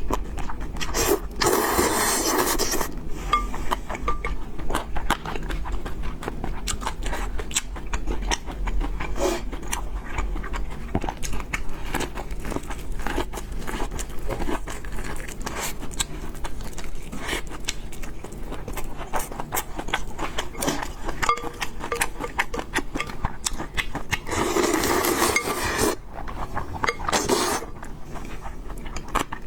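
Close-miked eating of noodles and pork: constant small clicks of chewing and of utensils scraping and clinking against a bowl, with two longer hissing slurps, one about two seconds in and one near the end.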